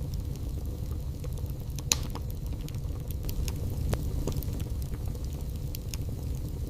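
Wood fire crackling: a steady low rumble of the burning logs with irregular sharp pops and snaps, the loudest about two seconds in.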